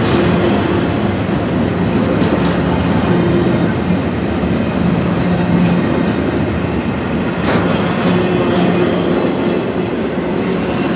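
CSX freight train rolling past on the rails: a steady loud rumble of the cars with a low hum under it, and a sharp clank about seven and a half seconds in.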